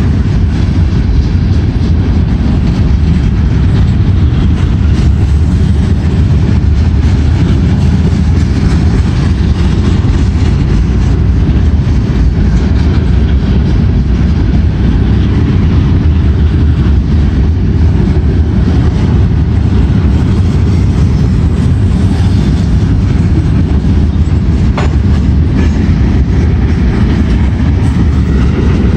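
Norfolk Southern freight train of gondola cars rolling past, a steady, loud rumble of steel wheels on the rails.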